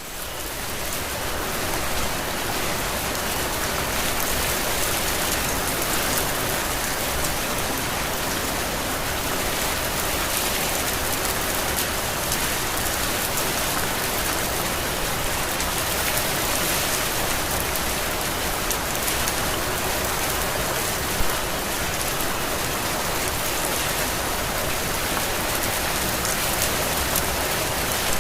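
Heavy steady rain, a dense even hiss with scattered drop ticks; it fades in over the first couple of seconds.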